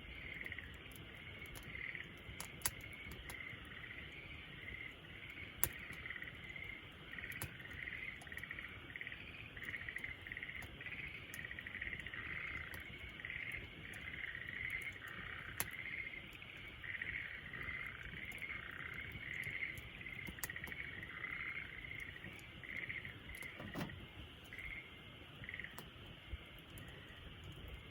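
Campfire crackling, with scattered sharp pops (the loudest about two and a half and five and a half seconds in), over a continuous chorus of chirping calls.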